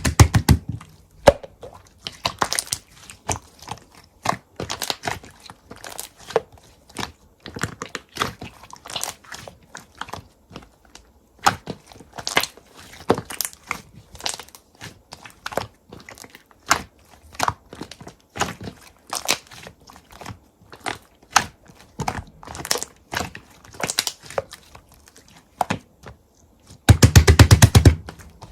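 Slime being pressed and squeezed by hand, with irregular crunching, crackling and popping clicks and a quick run of rapid clicks near the end.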